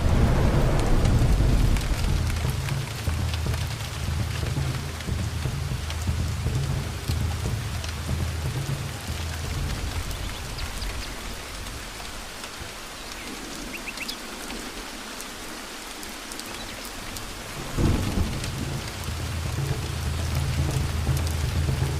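Steady rain with rolling thunder. A low rumble dies away about halfway through, and a fresh thunderclap breaks in sharply near the end and rumbles on. A few faint high chirps come through the rain in the middle.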